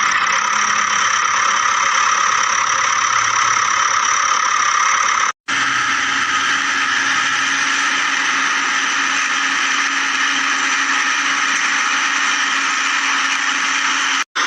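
A small motor runs with a steady whir. It breaks off abruptly twice, about five seconds in and just before the end, and resumes each time with a slightly different tone.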